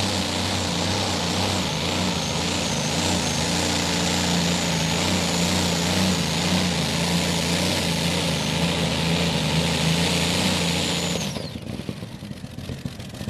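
A Light Modified pulling tractor's engine running hard under load, with a high whine above the engine note. About eleven seconds in the power is cut: the whine falls away quickly and the engine sound drops off.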